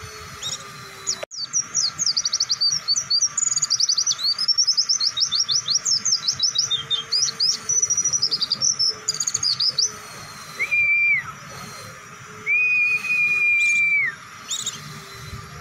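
White-eye (pleci) singing a long, fast run of high chirps and trills for about eight seconds, followed by two long, even whistles.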